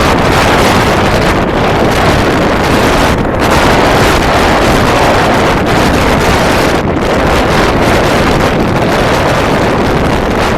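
Loud, steady wind rushing over the microphone on a moving motorboat, with the boat's engine and water noise blended into it.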